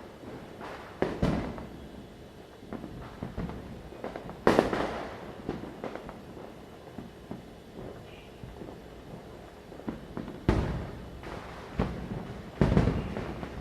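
Firecrackers going off at a distance, a few loud bangs that each echo away over about half a second, with smaller scattered pops between them over a steady background rumble.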